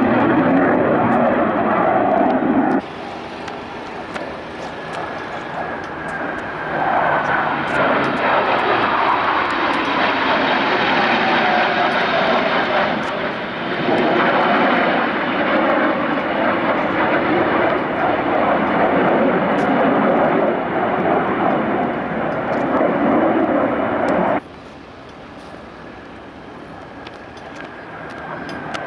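Jet engines of Blue Angels F/A-18 Hornets roaring through practice passes, with a whine that falls steadily in pitch as one jet flies by. The roar cuts abruptly quieter about three seconds in, swells back, and drops again suddenly near the end.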